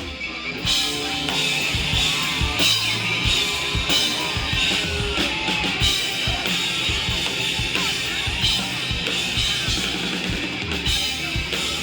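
Loud rock music driven by a drum kit, with steady drum hits and cymbals ringing throughout.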